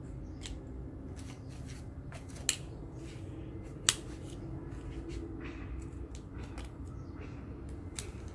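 Cardboard being cut by hand: scattered snips and scrapes, with two sharp clicks about two and a half and four seconds in, over a steady low hum.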